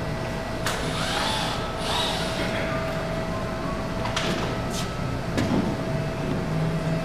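Workshop background noise: a steady hum with a constant faint tone, a few short squeaky whirs and a couple of sharp clicks.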